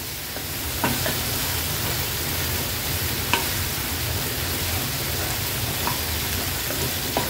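Prawns frying in butter and garlic in a pan, a steady sizzle, while they are stirred, with a few light clicks against the pan.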